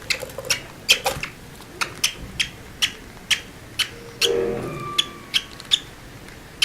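Small birds chirping in a quick, repeated series of short, high chirps, about two or three a second. A brief lower call sounds about four seconds in.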